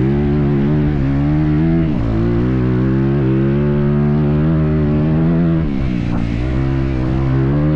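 Motocross bike engine running hard on the track, its pitch dropping and climbing back several times as the throttle is rolled off and on.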